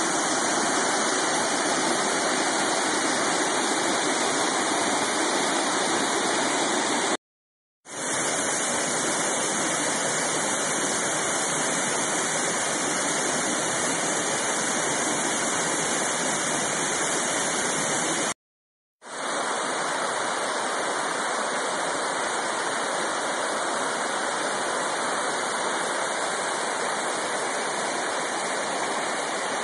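Waterfall: a steady, even rush of falling water, broken twice by a brief moment of total silence, the rush fading quickly back in after each.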